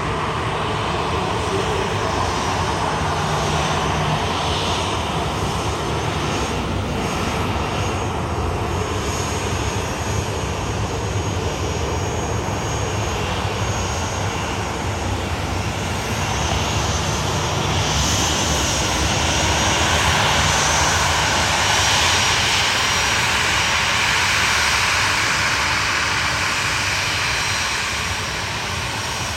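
Airliner engines running steadily, a dense roar that grows louder about two-thirds of the way through and eases slightly near the end.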